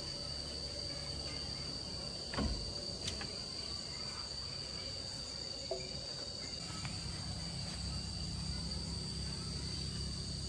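Steady high-pitched drone of insects over a low background hum, with a thump about two seconds in and a sharp click a moment later.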